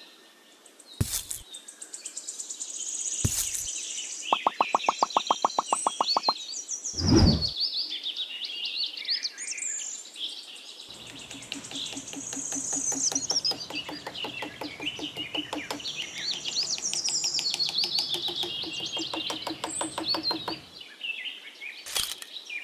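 Small birds chirping and singing throughout, with a few sudden knocks and a rapid run of clicks lasting about two seconds.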